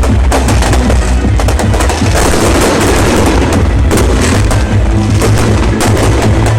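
Fireworks going off in a rapid, dense string of bangs and crackles, over loud music with a heavy bass.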